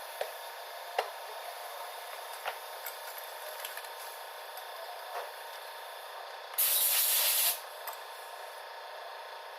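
A few light clicks of tools on metal, then a loud hissing burst of spray or compressed air lasting about a second, about two-thirds of the way in.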